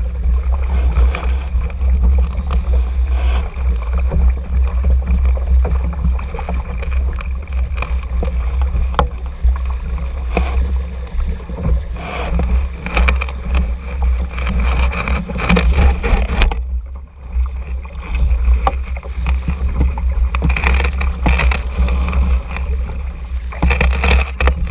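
Water rushing and splashing along the hull of a small RS Tera sailing dinghy under way, over a heavy steady rumble of wind on the camera microphone. The sound eases briefly about two-thirds of the way through.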